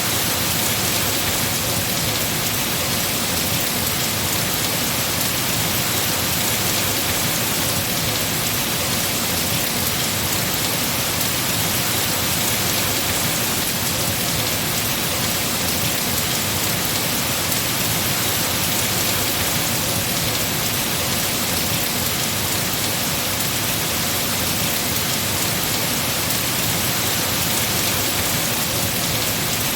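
Heavy rain falling steadily on trees, an even, unbroken hiss of drops on leaves.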